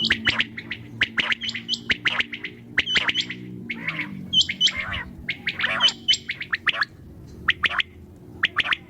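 Quail calling: a fast run of short, sharp call notes in quick clusters of two to four, with brief gaps between clusters.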